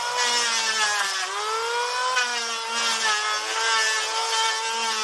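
Electric hand planer running, its motor making a steady high whine that sags in pitch and climbs back a few times, over a steady hiss.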